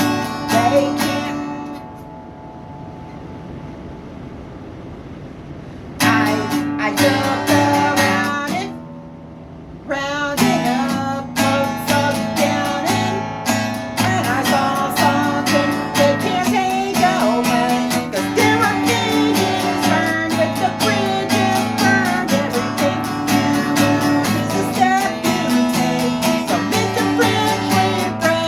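Acoustic guitar strummed. A chord rings out and fades near the start, then after a pause the strumming comes back about six seconds in, stops briefly, and runs on steadily from about ten seconds.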